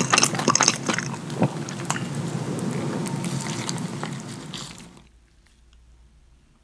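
Close-miked wet chewing and lip-smacking of a mouthful of food. Sharp smacks in the first second give way to steadier chewing, which fades out about five seconds in.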